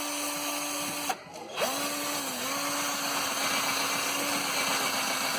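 Electric drill drilling out a rivet that holds a car's rear bumper. It runs about a second, stops for a moment, then starts again and runs on steadily, its pitch dipping briefly under load soon after restarting.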